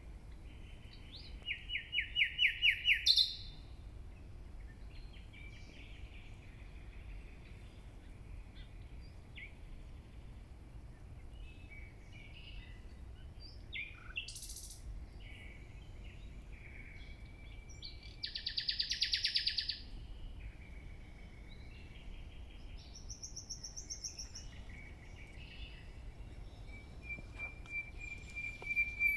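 Songbirds singing and calling, with a loud rapid trilled song phrase about two seconds in, another burst of song later on and scattered short chirps in between, over a faint low rumble of outdoor background.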